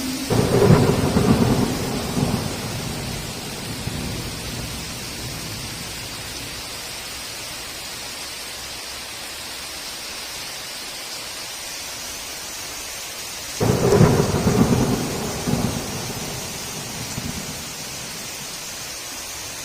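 Heavy rain falling steadily, with two loud rolls of thunder that rumble on for a few seconds each: one just after the start and another about two-thirds of the way through.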